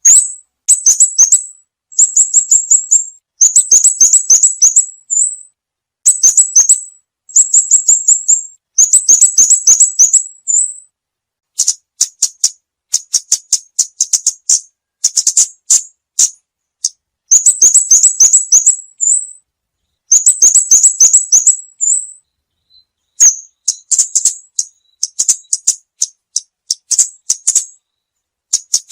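A small songbird's rapid, very high-pitched chattering call, the 'ốc mít' lure call used by bird trappers, given in repeated bursts of about a second each with short pauses between.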